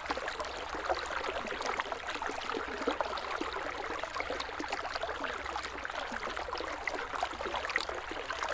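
River water flowing and babbling: a steady rush of water with many small splashes and trickles.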